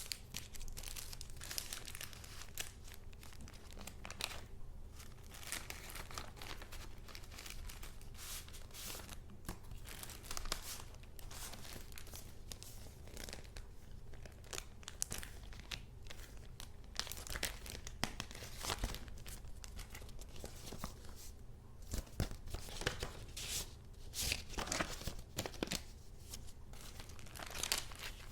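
Paper being handled close up: a dense run of quick, irregular rustles of sheets and paper pieces from a handmade junk journal.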